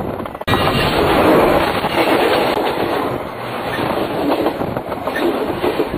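A train rolling directly overhead, its wheels clattering along the rails in a loud, dense, steady rumble. A brief dropout about half a second in, after which the sound comes straight back at full loudness.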